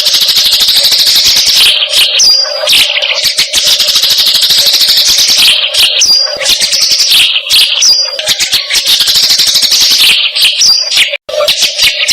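Loud, looped recording of a rapid, chattering bird call: dense fast pulses with a short high note, repeating in a cycle about every four seconds. It is a masteran track for training magpie-robins to copy the call.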